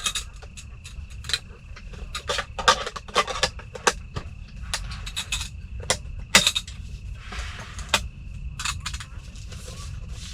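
Plastic clicks, taps and rustles from handling and closing a self-heating meal container, many short knocks in irregular succession. A steady high-pitched tone runs underneath almost throughout.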